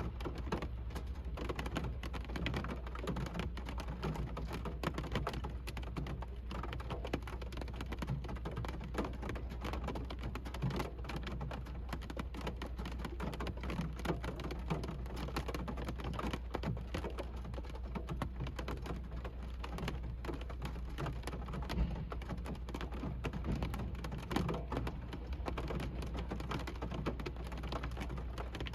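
Rain drumming on a car's roof and glass, heard from inside the cabin: a dense, steady patter of drops over a constant low rumble.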